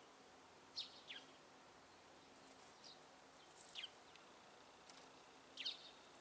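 Faint bird chirps, short calls that sweep downward in pitch, several scattered over quiet background, some coming in close pairs.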